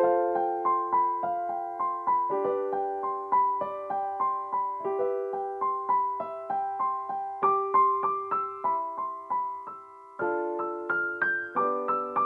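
Solo piano playing a high, repeating melody of quick notes over sustained chords, with the sustain pedal holding the harmony. The phrase pauses about ten seconds in and starts again with a lower chord.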